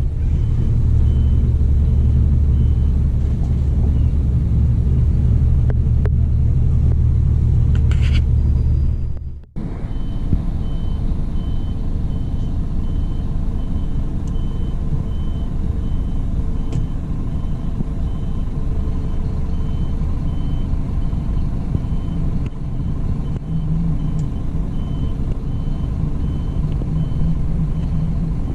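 Scania coach engine running with a heavy low rumble; after a sudden cut about nine seconds in, it runs on more quietly while a high reversing beeper sounds at an even, regular pace.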